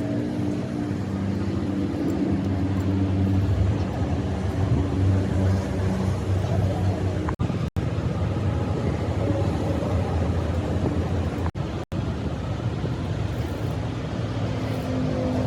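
An engine or machine running steadily, with a low hum. It cuts out briefly twice, about halfway through and again a few seconds later.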